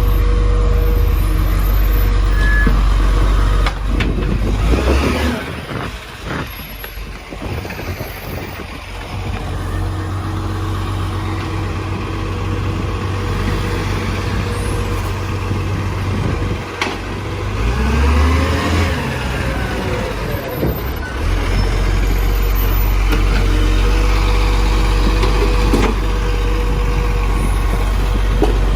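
Garbage truck's diesel engine running, with a burst of air hiss about five seconds in as the engine rumble drops away. The engine rises and falls in pitch about two-thirds of the way through.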